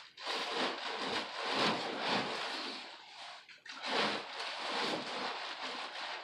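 Irregular rustling noise that swells and fades, with a brief dip about three and a half seconds in.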